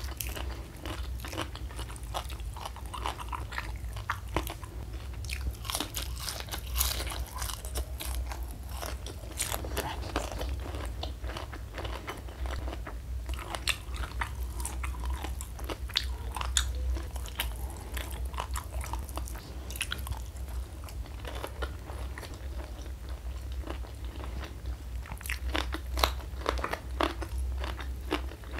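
Close-miked chewing and crunching of crispy battered fried mushrooms: irregular sharp crackling crunches, thickest about a quarter of the way in and again near the end, over a steady low hum.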